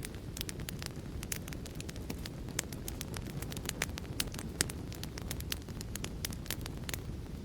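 Fireplace fire crackling: frequent, irregular sharp snaps and pops over a steady low rumble of burning.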